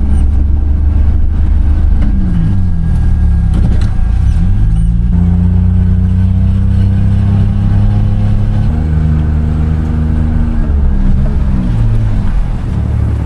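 Motor vehicle engine running, its pitch holding steady for stretches and sweeping up and down a few times as the revs change.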